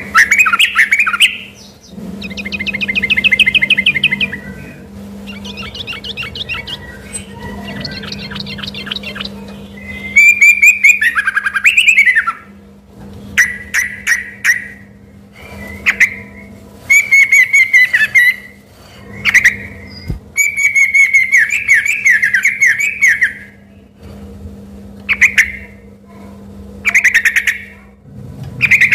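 Yellow-vented bulbul (trucukan) singing in loud, chattering 'gacor' form: short song phrases repeated every second or two, with stretches of rapid trills between them, a song that can be mistaken for a white-rumped shama's.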